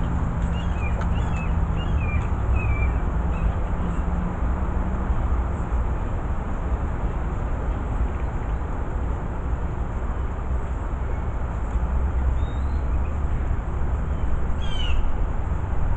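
Steady low rumble of outdoor background noise, with a faint hum that fades out about five seconds in. Small birds chirp several times in the first few seconds, once around the middle and once near the end.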